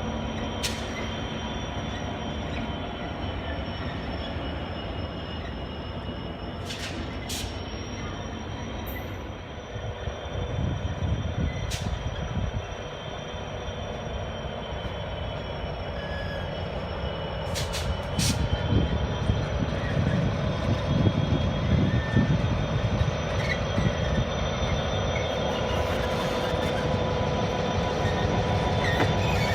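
Train at a station with a steady high-pitched squeal that wavers slowly in pitch, over a low rumble that grows louder about two-thirds of the way through; a few sharp clicks stand out.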